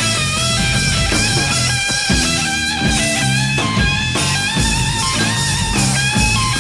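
Live hard-rock band playing an instrumental section: a lead electric guitar line with bent notes over bass guitar and drums.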